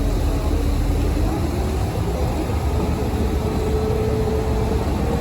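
Boat engine running steadily: a continuous low drone with a faint hum above it.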